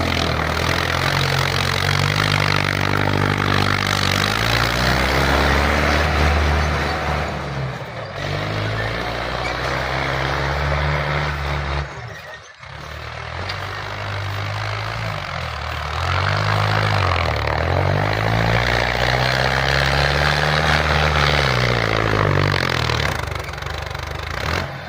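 Tractor engine revving up and down again and again, with a loud rushing noise over it. The sound drops out briefly about halfway through, then the revving picks up again.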